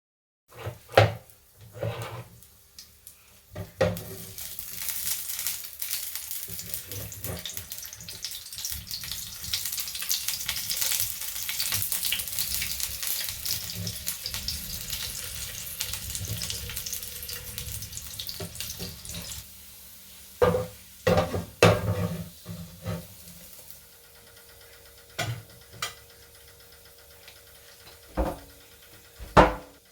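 Food sizzling and crackling in a frying pan for about fifteen seconds, with utensils knocking and clattering against cookware before and after.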